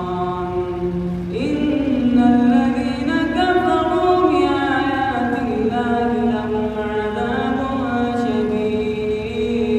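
A man's solo voice reciting the Quran in melodic tajweed style, holding long drawn-out notes that slide from pitch to pitch, with a jump to a higher note about a second and a half in.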